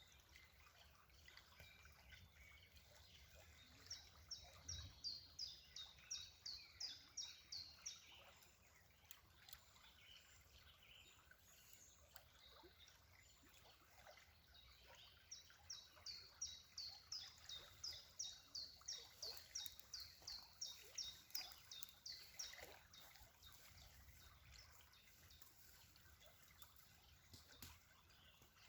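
A songbird singing two runs of fast, high, repeated downward-sweeping notes, about three a second. The first run lasts about four seconds; the second starts about fifteen seconds in and lasts about seven. A faint steady hiss lies under it.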